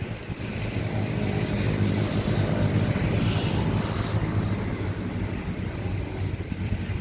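Steady low engine hum with rushing noise over it, swelling louder about three seconds in, like a motor vehicle running or passing close by.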